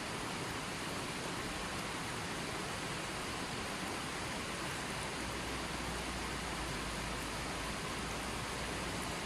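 Steady rush of continuously running water, with a low hum coming in about halfway through.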